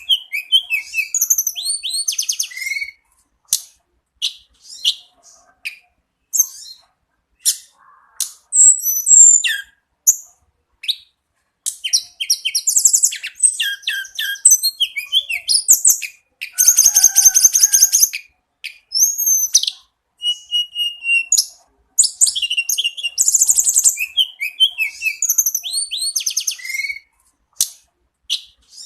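A tledekan gunung songbird singing. It gives bursts of fast, varied, high-pitched phrases, with rapid trills and short whistled glides, and brief silent pauses between the bursts.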